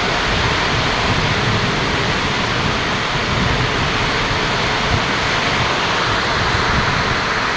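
Heavy rain pouring steadily in a windstorm: a constant loud hiss with a low rumble underneath.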